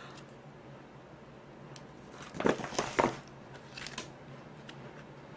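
Handling of gift packaging or paper: short crinkling rustles about two and a half and three seconds in, and a smaller one near four seconds, over quiet room tone.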